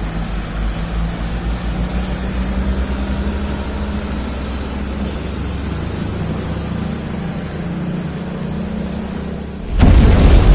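Heavy container truck's diesel engine running with a steady low throb as the truck moves off. Near the end a sudden, much louder burst of noise cuts in.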